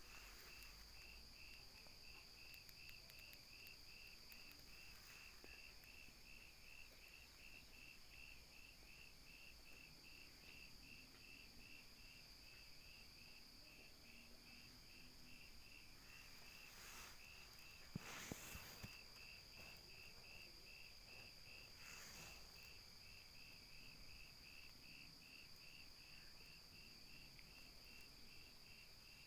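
Faint night insects chirping: a steady pulsed chirp at about two chirps a second over a continuous high trill. About two-thirds of the way through come a few brief, louder whooshing noises.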